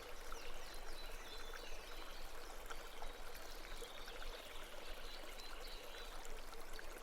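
Faint babbling stream, water trickling and bubbling steadily.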